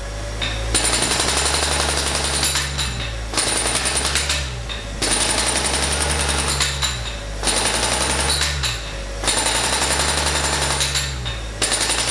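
Pneumatic chipping hammer breaking out concrete in bursts of rapid blows, each lasting two to three seconds, with short pauses between them, over a steady low hum.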